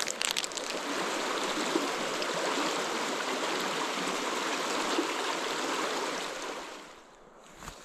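River water rushing, a steady noise that fades away about seven seconds in.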